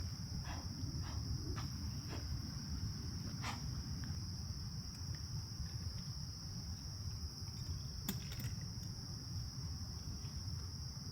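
Insects, crickets or katydids by their steady note, trill without a break in one continuous high buzz. Under it runs a low rumble, and a few sharp clicks fall in, a close cluster about eight seconds in.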